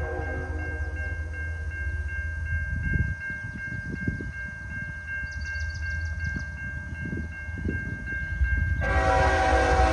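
Freight locomotive's air horn, a multi-note chord, trailing off just after the start and sounding again about nine seconds in. Between the blasts a level-crossing bell rings in a steady repeating pattern, and the passing train's wheels rumble and knock over the rails.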